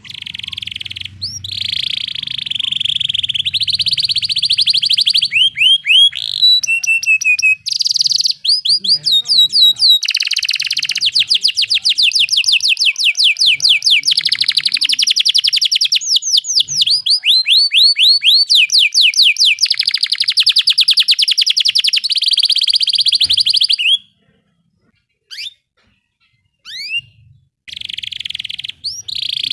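Canary singing long, rapid rolls: fast trills of repeated high notes and runs of quick upward-sweeping notes. About three-quarters of the way through, the song stops for a few seconds, leaving only a couple of single chirps, then it starts again.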